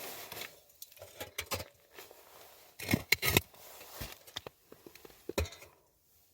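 Small objects being handled: a run of irregular clicks, light knocks and rustling, with a quick clattery cluster about three seconds in and a sharper knock near the end.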